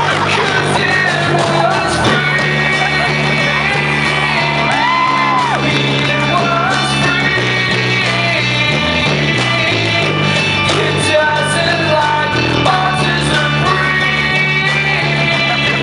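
Live acoustic band playing rock music: guitar chords and a steady bass line, with voices singing and shouting over them.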